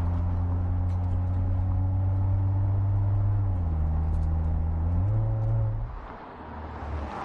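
Audi RS 5 Coupé engine running at steady revs. Its pitch dips about three and a half seconds in, rises back about a second and a half later, then falls away quieter near the end.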